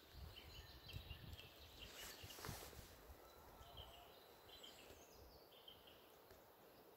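Near silence in the open air, with faint distant birdsong: two runs of short, high repeated notes.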